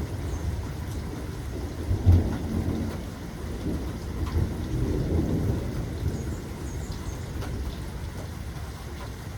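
Steady rainfall with rolling thunder: a loud thunderclap about two seconds in and another rumble building around five seconds, then the thunder easing under the rain.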